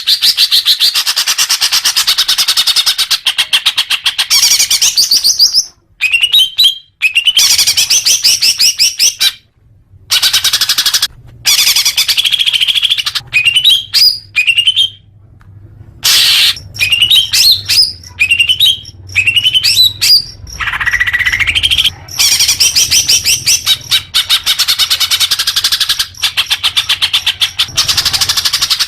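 Greater green leafbird (cucak hijau) singing: a long, fast, varied song of rapid chattering trills and rising whistled notes, broken by a few brief pauses.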